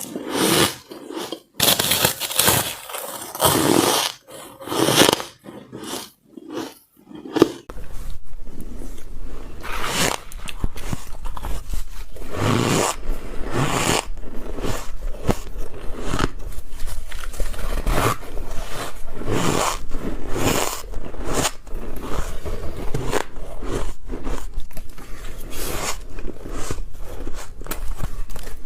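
Ice being bitten close to the microphone: a long series of short, crunchy bites, spaced out at first and then coming closer together. A low steady hum sits under the bites from about eight seconds in.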